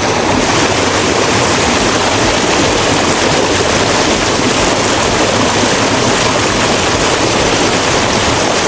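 Steady, loud rush of water, as from a waterfall or fast stream close by.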